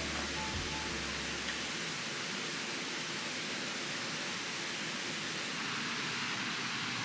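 Steady rushing of a mountain stream, an even wash of water noise with no change.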